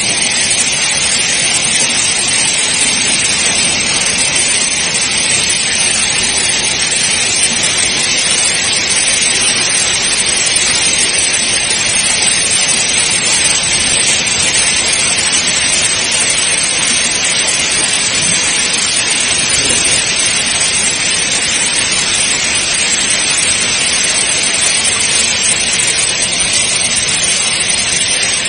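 Hailstorm: hail and rain pelting down on surfaces as a dense, steady hiss that does not let up.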